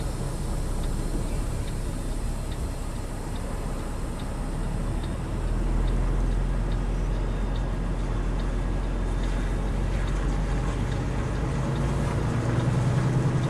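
Semi truck's diesel engine running steadily, heard from the cab, growing louder about five and a half seconds in. A light tick repeats about every 0.7 seconds over most of the stretch.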